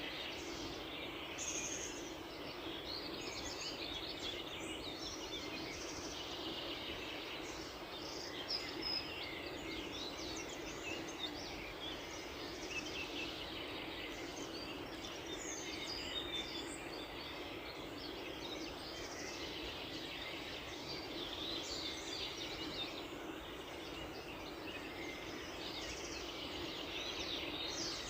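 Many small birds chirping and trilling at once, a dense dawn chorus over a steady background hiss.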